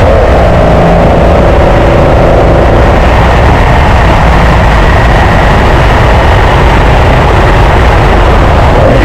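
1976 Nissan S30Z's modified L28 straight-six running steadily while the car is driven, heard as a loud, constant engine drone.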